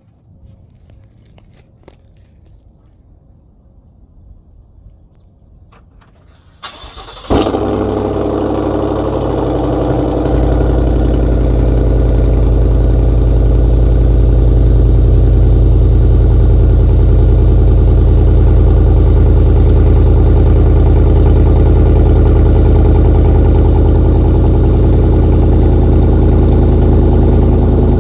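Chevrolet Suburban's 6.2-litre V8 cold start through an exhaust with the muffler and both resonators removed but the catalytic converters kept. After a few faint clicks, it cranks briefly and catches about seven seconds in with a loud flare. It then settles into a loud, steady, deep idle.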